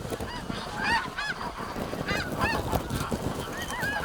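Snow geese calling: many short, high, overlapping honks in a continuous chorus.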